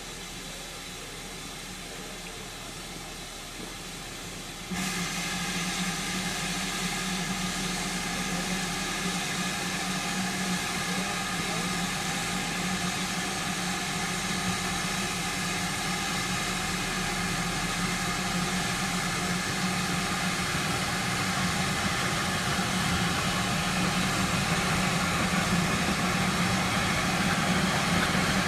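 Steam train drawing nearer, a steady hiss over a low rumble that jumps suddenly louder about five seconds in, then grows slowly louder.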